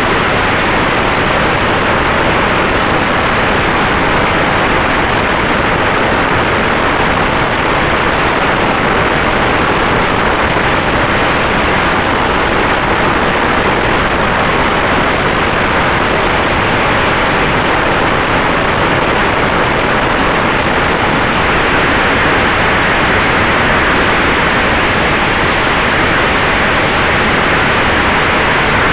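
Steady in-flight noise of an electric Sonex Xenos airplane: an unbroken rush of air, with a faint steady whine underneath.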